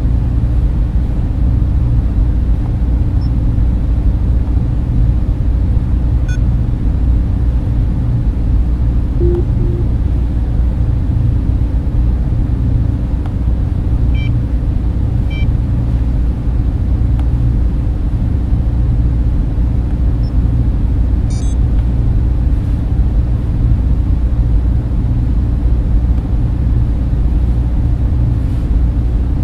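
Data center ambience: a steady, deep rumbling drone of server and cooling fans that does not change. A few faint, brief high tones sound in the middle.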